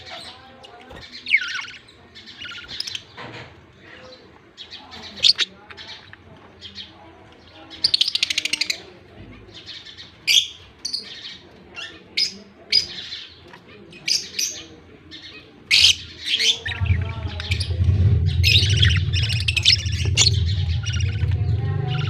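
Budgerigars chirping in short, repeated calls, with a rapid buzzing call about eight seconds in. A steady low hum starts near the end.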